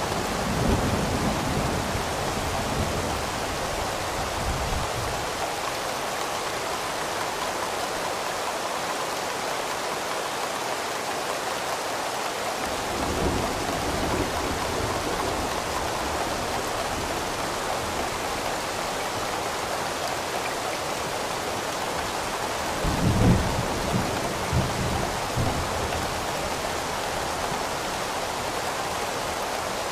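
Steady rain hissing, with rolling thunder rumbling three times: once at the start, again about halfway through, and loudest a little past two-thirds of the way in.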